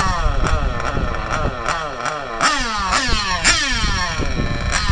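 Small high-revving nitro engines of 1/8-scale on-road RC cars lapping a track. The pitch falls sharply again and again as the cars lift off or sweep past, then climbs back up under throttle.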